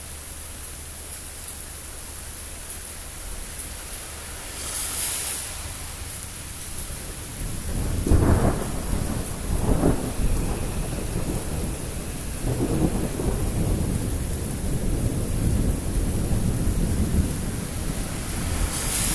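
Thunder rumbling over a steady hiss of rain. The rumble builds about seven seconds in, swells to two loud peaks about a second and a half apart, then keeps rolling.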